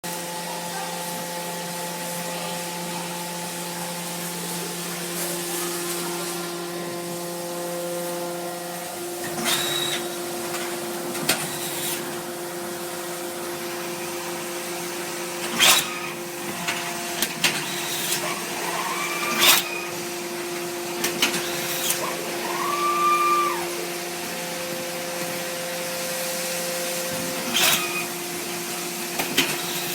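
HPAP30 full-automatic horizontal baler running: a steady hum from its hydraulic power unit, with sharp clanks every few seconds and a few short squeals.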